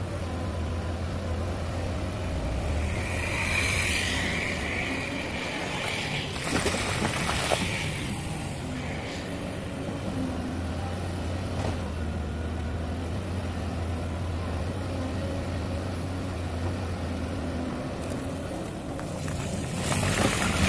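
Caterpillar 320D hydraulic excavator working rock, its diesel engine running steadily. Bursts of clatter and scraping come around four seconds in and again around seven seconds.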